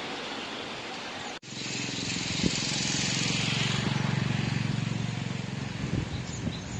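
Rushing floodwater of a swollen creek, cut off suddenly about a second in, followed by a louder steady motor hum with a hiss over it.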